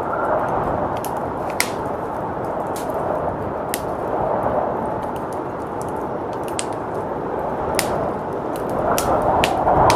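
Wood fire crackling with scattered sharp pops over a steady rush of blizzard wind, the wind swelling near the end.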